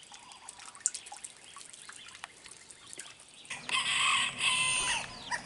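Chickens clucking, quiet at first, then two loud, harsh calls in the second half.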